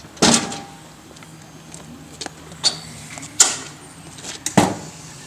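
Four sharp knocks or clanks, the first and last loudest, from equipment being handled during roadside asphalt repair work, over a faint steady low hum of running machinery.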